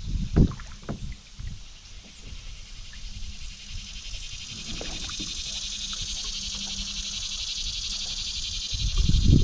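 Canoe paddling on a river: low knocks of the paddle and hull in the first second or so. Then a high, fast-pulsing buzz swells through the middle, and a louder low rumble comes in near the end.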